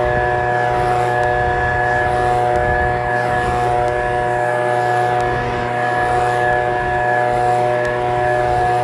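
Echo PB-2620 handheld leaf blower's two-stroke engine running steadily, its whine held at one constant pitch.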